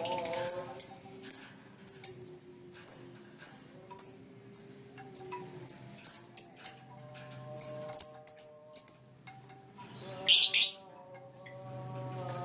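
Lovebird chirping, a string of short high chirps at roughly two a second, with a longer, louder, harsher call about ten seconds in.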